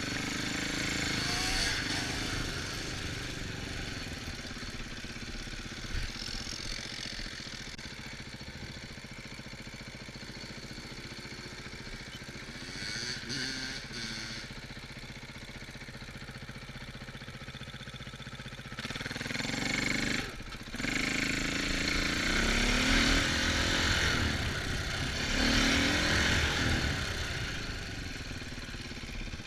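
Off-road vehicle engines running and revving, their pitch rising and falling. They grow louder about two-thirds of the way through.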